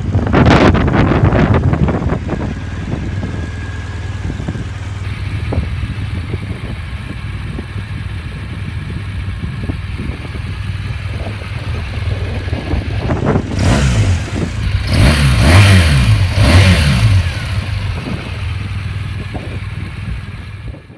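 2017 BMW R1200 GS Adventure's liquid-cooled boxer twin idling, revved up briefly at the start and blipped several times about two-thirds of the way through before dropping back to idle.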